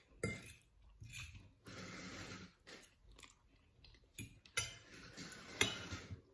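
Close-miked chewing and crunching of food, mixed with a knife and fork clicking and scraping on a ceramic plate: a scatter of short, sharp clicks, the loudest about four and a half and five and a half seconds in.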